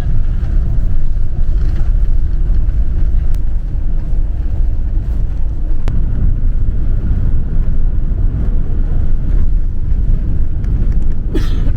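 Loud, steady low rumble of a vehicle in motion, with a short sharp sound near the end.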